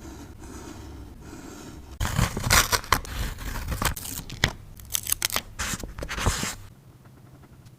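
Scissors snipping through paper in a quick run of cuts and scrapes, starting about two seconds in and stopping after about four and a half seconds.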